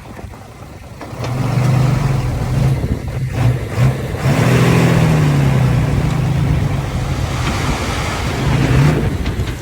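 Heavy diesel engine running under load, getting louder about a second in and briefly revving higher around the middle.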